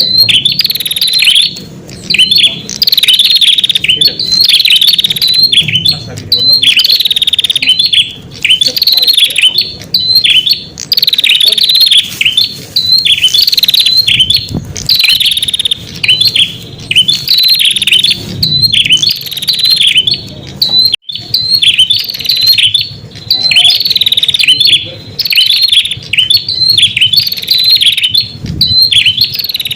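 Prenjak bird calling in a loud, nonstop run of sharp, high chirps, about one phrase a second: the lure call used to draw in wild prenjak.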